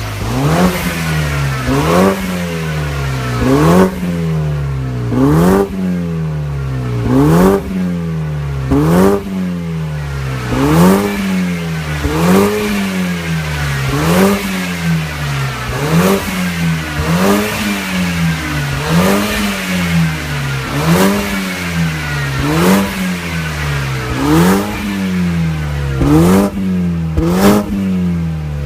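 BMW F32 4 Series Coupe 2.0i with a REMUS aftermarket rear exhaust section, its engine blipped again and again, about every second and a half to two seconds. Each rev climbs quickly and falls back to idle.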